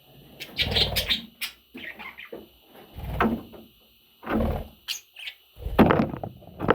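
Pet budgerigars chirping, over several short bursts of rustling and bumping.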